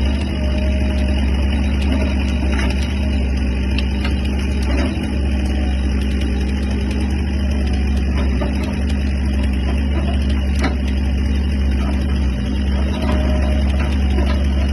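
Excavator diesel engine running steadily at a constant pace, with a few isolated sharp knocks.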